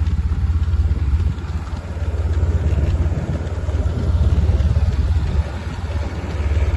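A motor vehicle's engine running steadily at low speed, a loud low drone with a fast, even pulse.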